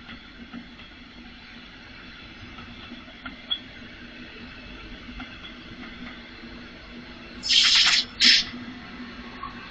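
Train at a station with a low steady hum, then two loud, short hisses of compressed air, one right after the other, near the end.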